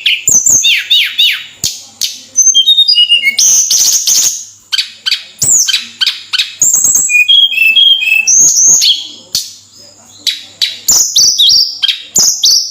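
Tledekan singing loudly in a fast, varied run of chirps and sweeping whistled notes, broken by short harsh notes, with a brief lull about two-thirds of the way in.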